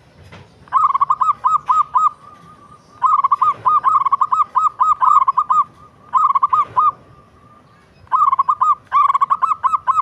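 Local zebra dove (perkutut) cooing: four phrases of quick, rapidly repeated coo notes with short pauses between them.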